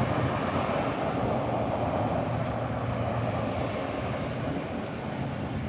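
A steady engine drone with a constant low hum that slowly fades.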